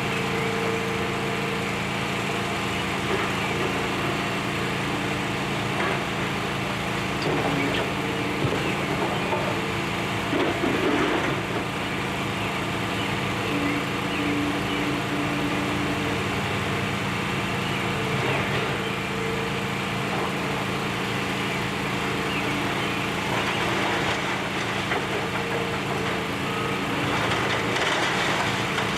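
Demolition excavator's diesel engine running steadily, with stretches of crunching and clattering debris about a third of the way in and again near the end.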